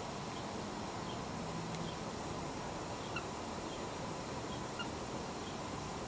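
Faint, short bird chirps from the aviary, scattered irregularly every half second or so, over a steady hiss.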